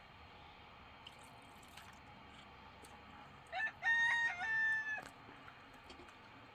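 A rooster crowing once, a single call of about a second and a half, a little past the middle.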